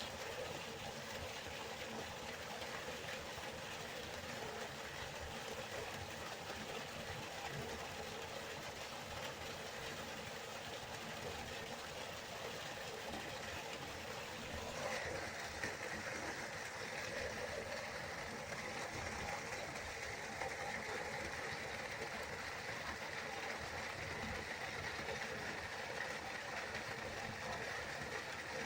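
River water rushing and flowing, a steady even hiss. About halfway through it turns brighter and a little louder, then holds steady again.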